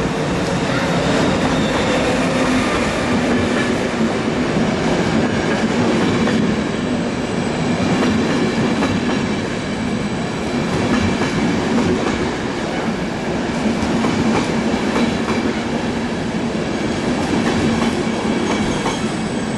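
ÖBB Taurus electric locomotive and its passenger coaches rolling past along the platform, a steady rumble of wheels on the rails throughout.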